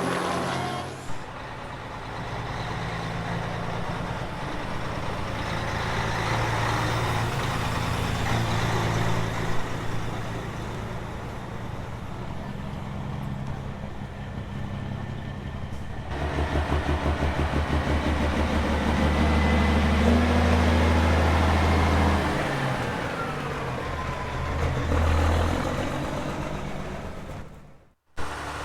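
Semi-truck diesel engines running at a drag strip. A steady low drone gives way about halfway through to a louder, pulsing engine sound that eases off and builds again. The sound cuts out briefly near the end.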